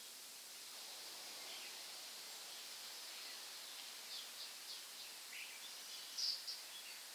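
Short bird chirps and tweets, a few notes from about four seconds in and the loudest pair about six seconds in, over a steady hiss of tropical forest background.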